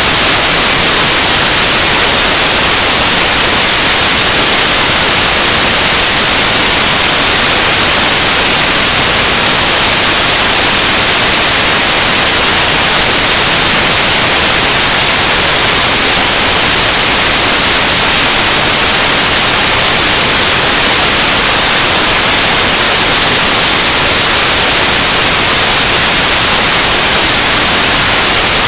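Harsh noise music: a loud, unbroken wall of static hiss, brightest in the treble, with no rhythm or change in level.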